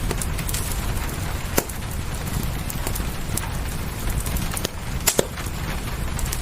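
Steady rain with a low rumble under it, and a wood fire crackling: irregular sharp pops, one louder pop about a second and a half in and a quick double pop about five seconds in.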